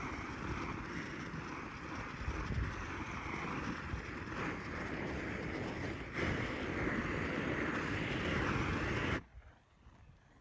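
Propane weed burner torch running with a steady rush of flame while it burns wax off a honey strainer screen. The rush dips briefly about six seconds in, then cuts off suddenly about nine seconds in.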